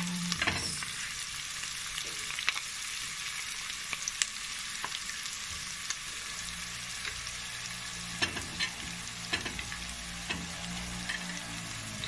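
Onions and chicken sizzling in oil in a nonstick wok: a steady frying hiss with a scattering of light taps and clicks.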